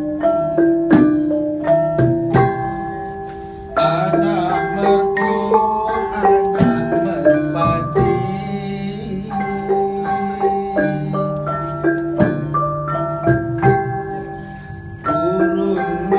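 Malay gamelan ensemble playing: struck metallophones ringing in melodic lines of repeated notes over sustained low tones. It swells louder about four seconds in and again near the end.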